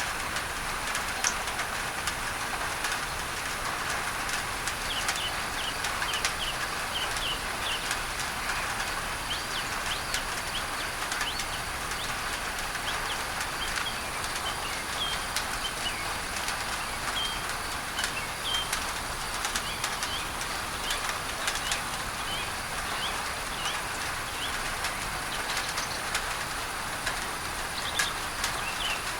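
Steady rain on a tin roof blended with a pink-noise masking layer, with short high bird chirps repeating throughout and scattered drop ticks.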